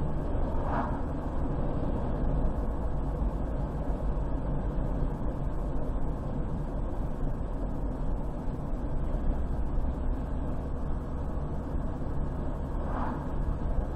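Steady road and engine noise of a car driving along a highway, with two brief higher-pitched chirps, one about a second in and one near the end.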